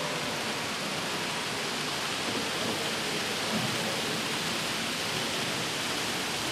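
Steady rushing noise with no clear single event, with faint voices in the background.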